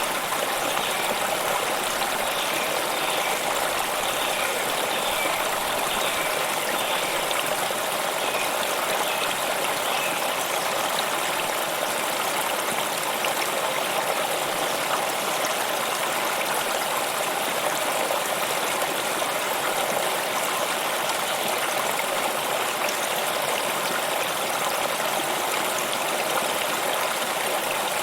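A stream of running water flowing steadily, an even babbling rush that does not change.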